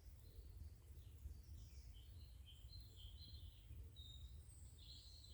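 Faint woodland birdsong: scattered short, high chirps from small birds, busier near the end, over an otherwise near-silent background.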